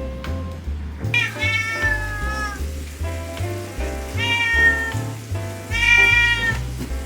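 A domestic cat meowing three times, each a drawn-out call, the last one the loudest, over background music with piano and a bass line.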